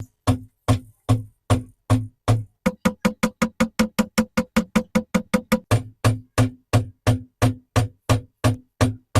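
A long run of sharp knocks, each with a low thud, about two or three a second at first, speeding up to about five a second in the middle, then slowing again.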